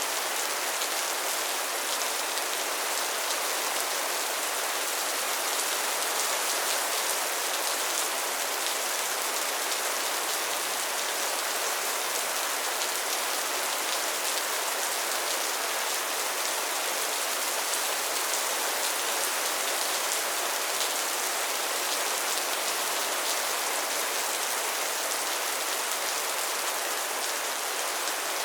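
Steady rain falling, a dense even patter of drops with fine crackling detail.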